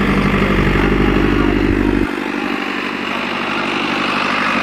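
Tractor engine running steadily with a deep, even sound that cuts off abruptly about two seconds in, leaving a mix of crowd voices and fainter engine noise.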